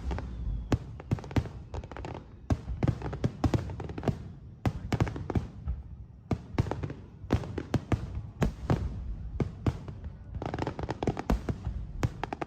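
Aerial fireworks bursting overhead, many sharp bangs in quick irregular succession over a continuous low rumble.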